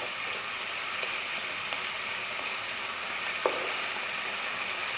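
Chopped onions and barbecue sauce sizzling steadily in hot oil in a nonstick pot on a medium-to-low flame. There is one light tap about three and a half seconds in.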